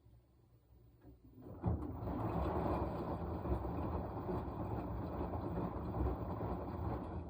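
Washing machine running a burst of its wash cycle: a steady rushing and rumbling of the turning drum and wet laundry starts about a second and a half in, runs for about five seconds and stops abruptly near the end.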